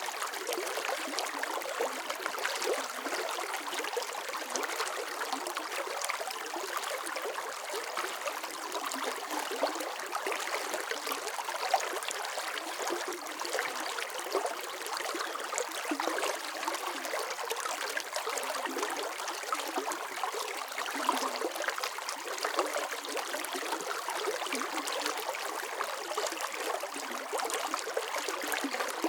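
Steady running water, a flowing stream with lots of small splashing and trickling detail and very little low rumble.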